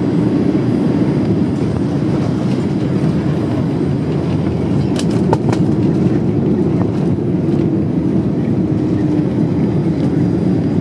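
Boeing 787 Dreamliner heard from inside the cabin as it rolls on the ground after landing: a loud, steady rumble of the wheels and engines with a faint steady hum. A couple of small clicks come about five seconds in.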